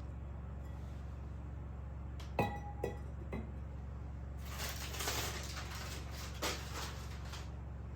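Glass or dishes clinking three times in quick succession, the first ringing briefly, then a few seconds of scraping or rustling. A steady low hum runs underneath.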